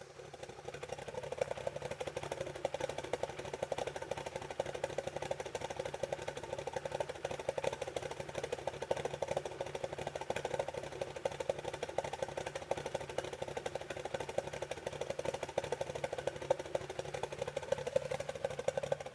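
Toyota AE86's four-cylinder engine idling steadily, with an even, rapid pulsing.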